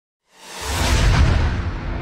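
A whoosh-and-boom sound effect: a sudden swell of rushing noise over a deep bass boom, starting about a third of a second in, peaking around a second and slowly fading.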